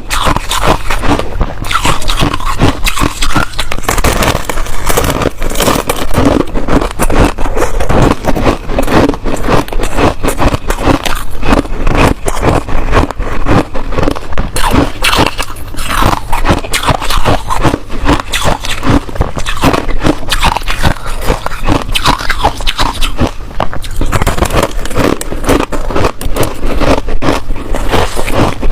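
Close-miked chewing of hard ice: a continuous run of loud, crisp crunches and cracks as the ice is bitten and ground between the teeth.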